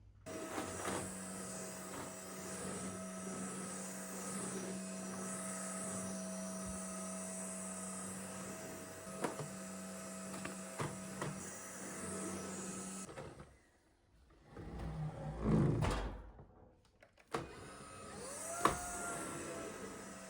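An electric motor in a household appliance runs with a steady hum and a few light clicks, cuts out about 13 seconds in, and starts again about four seconds later. Between the two runs there is a short, louder low knock or rumble.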